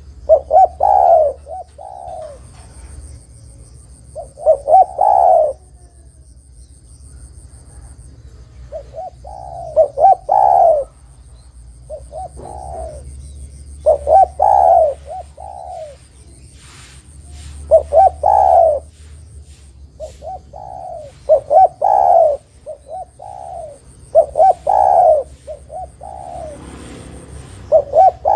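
Spotted dove cooing: phrases of a few short coos running into a longer, rolling coo, repeated every few seconds.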